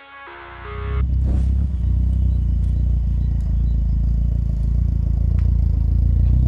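Ford Fiesta RS Turbo's turbocharged four-cylinder engine running at a steady, even speed with no revving, loud and low, coming in as a short music passage ends in the first second.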